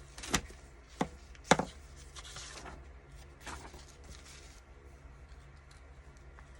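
Craft tools and paper being handled on a tabletop: three sharp taps in the first second and a half, the last the loudest, then faint rustling of paper.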